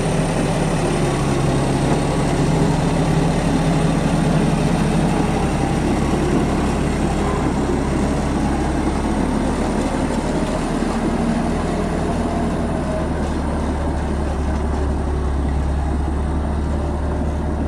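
Bulldozer's diesel engine running steadily while it digs, a continuous deep drone whose lowest note grows stronger about five seconds in.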